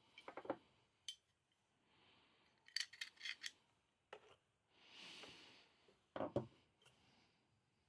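Light clicks and clinks of small hard parts being handled as a replica pistol's slide is taken apart, with a short rubbing scrape about five seconds in and a louder double knock about six seconds in.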